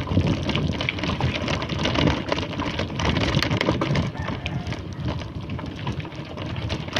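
Steady rustling noise full of many small clicks and crackles.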